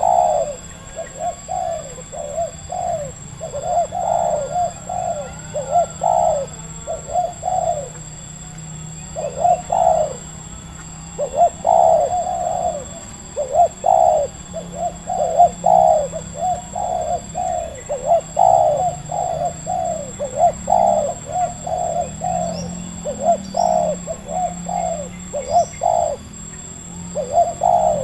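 Spotted doves (tekukur) cooing steadily, their low notes repeated in quick rhythmic phrases, with a short pause about eight seconds in. A few faint high chirps from a small bird come near the end.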